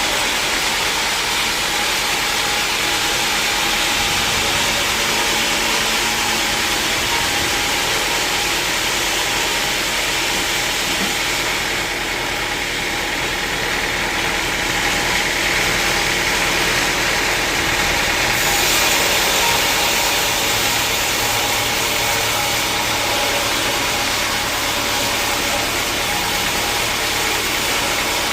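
Sawmill machinery running steadily: a loud, even mechanical noise with a faint steady tone.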